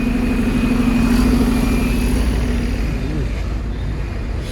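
Road traffic at close range: a large vehicle's engine running with a steady hum over a low rumble. The hum fades about two and a half seconds in.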